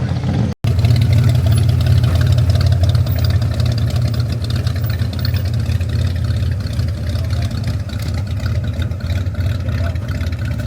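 A car engine running steadily with a loud, deep rumble, after a brief break about half a second in.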